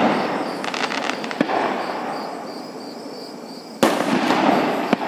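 Aerial fireworks: the echo of a shell burst fades out, a cluster of crackling pops comes about a second in, and then a sharp, loud shell bang comes near the end, followed by its echo. Crickets chirp faintly in a steady pulse throughout.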